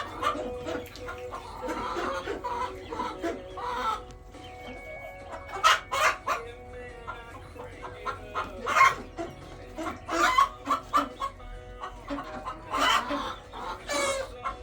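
Mixed flock of hens clucking and calling, many short calls overlapping, with a faint steady hum underneath.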